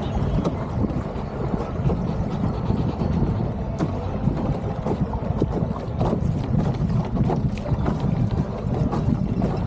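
Wind buffeting the microphone on a small solar-powered race boat under way, a low, rumbling rush with scattered short knocks and splashes.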